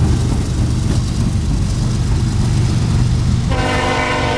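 Train passing close with a loud, steady rumble from the wheels and locomotive; about three and a half seconds in, the locomotive's horn starts sounding a multi-note chord and holds.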